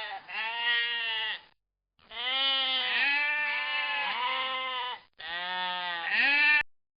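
Sheep bleating: several long, wavering bleats in three runs, broken by short silences.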